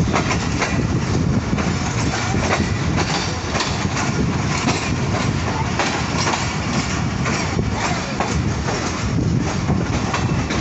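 Passenger train coach running along the track, heard from its open window: a steady rumble of wheels on rail with irregular clacks as the wheels cross rail joints and points.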